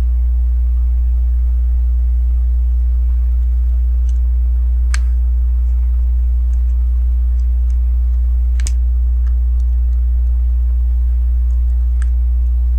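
A steady low electrical hum throughout, with a few sparse, sharp clicks of plastic LEGO pieces being handled and pressed together; the sharpest click comes about two-thirds of the way through.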